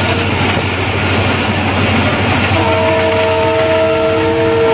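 Trains running at speed, heard through an open carriage window: a steady rumble and rush of wheels on rail. From about halfway in until near the end, a locomotive horn sounds one held chord of several tones.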